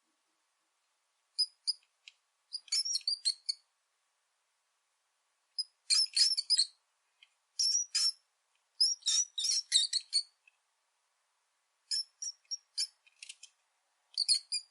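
Rat squeaking: bursts of short, high-pitched squeaks, several in quick succession, coming in groups every second or two with silent gaps between.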